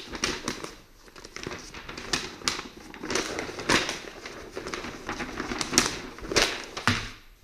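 Irregular clicks, taps and crinkling of objects being handled and moved about, with no steady sound underneath.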